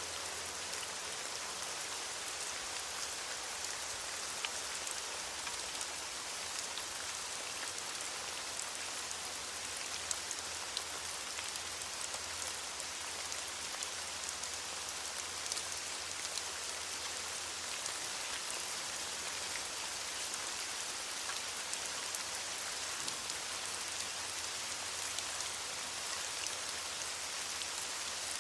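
Steady rain falling on leaves: an even hiss with scattered patters of individual drops.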